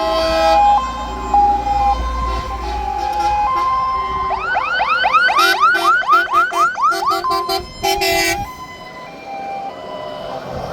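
Several fire engine sirens sounding at once: alternating two-tone notes, then from about four seconds in a fast yelp sweeping about four times a second, followed by short rapid tone blasts that drop away near the end. A low engine rumble runs under the first couple of seconds.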